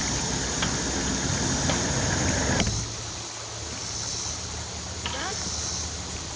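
Steady rush of flowing water with a low hum underneath; the sound changes abruptly and drops in level a little under three seconds in.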